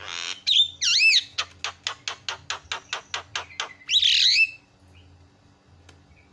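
Javan myna (jalak kebo) calling. It opens with a harsh rasp and whistled glides, then gives a fast run of clicking notes, about five a second for over two seconds, and ends with a harsh squawk.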